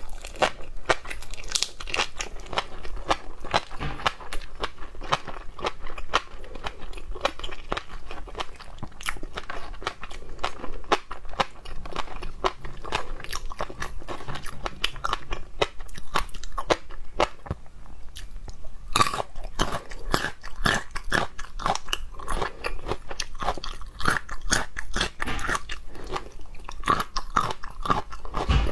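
A person chewing and crunching seafood close to the microphone: a dense, irregular run of wet crunches and clicks.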